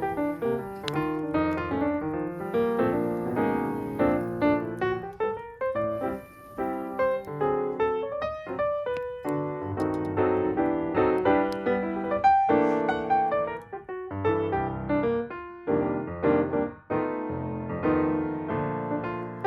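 Background piano music, a flowing line of quick notes.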